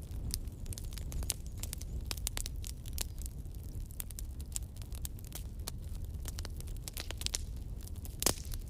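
Wood logs burning in a fireplace, crackling with frequent sharp pops over a low rumble of flame, with one louder pop near the end.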